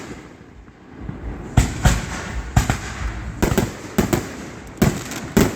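Aerial fireworks going off: after a quieter first second, a run of about eight sharp bangs at irregular intervals, some in quick pairs.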